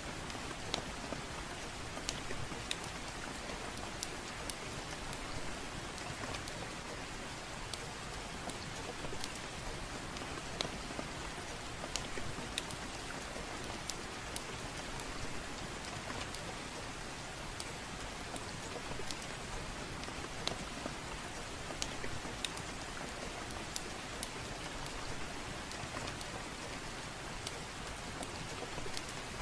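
Soft, steady rain, with scattered sharp clicks throughout.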